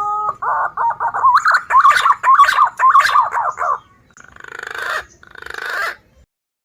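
Green pigeon (punai) call played as a bird lure. A rising whistled note leads into a fast run of warbling whistles, followed by two rougher, pulsed phrases that each swell in loudness, ending about six seconds in.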